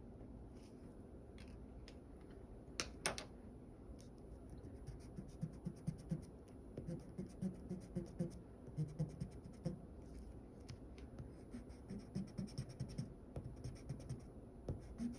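Drawing tool scratching on paper in rapid short sketching strokes, starting about five seconds in, after a quieter stretch broken by a sharp tap about three seconds in.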